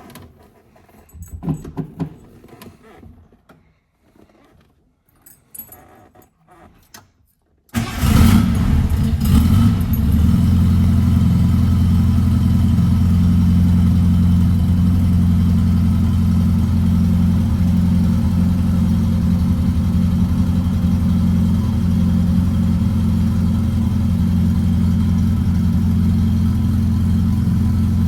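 A few light clicks and jingles, then a 1967 VW Beetle's air-cooled flat-four engine starts from cold about eight seconds in, revs briefly and settles into a steady idle.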